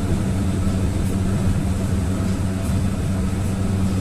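GAZelle van's engine running steadily at road speed with tyre and road noise, heard from inside the cab as a constant low drone.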